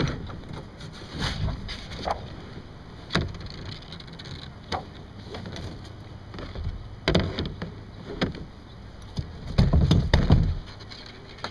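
Irregular knocks and bumps against a kayak as gear is moved around aboard, with a louder stretch of low rumbling bumps about ten seconds in.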